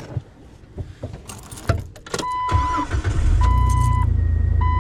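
Jeep's dashboard warning chime beeping steadily, about one beep a second, after a few clicks from the cab as the key is turned. About three seconds in, the engine starts and settles into a steady idle under the chime.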